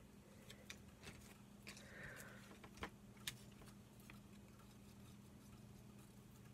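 Near silence: a low steady hum with a few faint, irregular clicks and taps, the sharpest about three seconds in.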